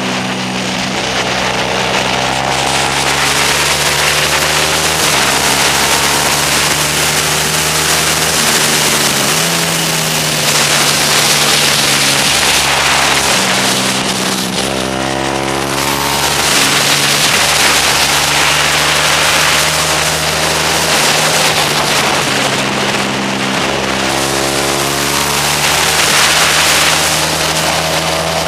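Motorcycle engine at racing speed, heard from on board: it climbs in pitch through several gear changes, drops back as it slows for corners, and climbs again, over a heavy rush of wind on the microphone.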